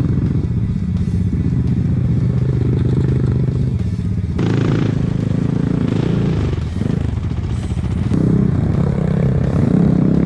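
Enduro motorcycle engine running under way, its pitch steady at first, then rising and falling with the throttle from about four seconds in, with some clattering over rough ground.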